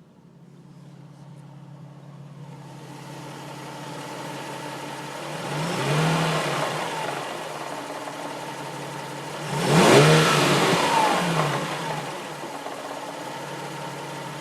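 Nissan 350Z's 3.5-litre V6 running, revved up and let back down twice, the second rev louder. The owner is listening for a slight rattle at 1,000 to 1,500 rpm, which he wonders may be normal clutch chatter.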